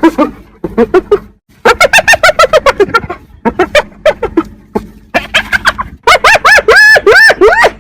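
Hyena giggling: bouts of rapid, high cackling notes, each rising and falling in pitch, several a second, broken by short pauses.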